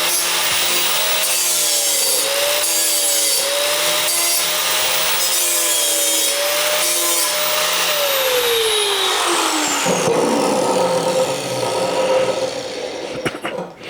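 Electric angle grinder with a 36-grit disc grinding steel, its motor pitch dipping under load with each pass about once a second. About eight seconds in it is switched off and its whine falls away as it spins down, followed by rougher scraping noise.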